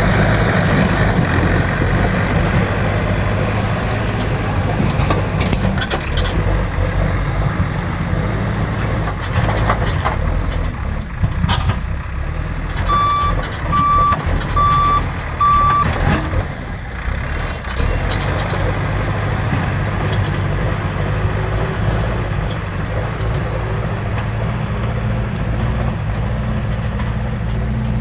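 JCB backhoe loader's diesel engine running steadily, with its reversing alarm beeping four times about halfway through and a few knocks around the middle.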